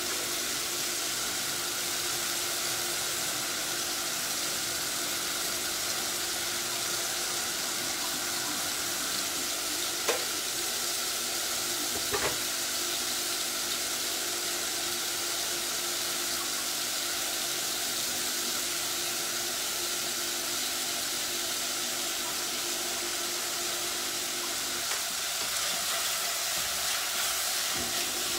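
Crab-and-prawn tomato sauce and frying mushrooms cooking on a high flame, a steady sizzling hiss. Two light knocks come about ten and twelve seconds in, and near the end a spatula stirs the mushrooms.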